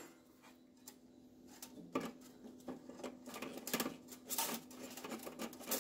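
Small clicks and light rattles of hands working the wire feed mechanism of a MIG welder while fresh wire is threaded through it, irregular, over a faint steady hum. The first second is almost silent.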